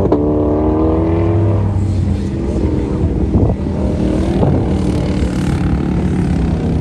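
A race car's engine running on an autocross course. Its pitch eases slightly downward and fades over the first couple of seconds, over a steady low drone.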